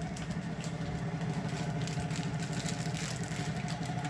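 A steady mechanical hum, like a motor or engine running at an even speed, with no change in pitch.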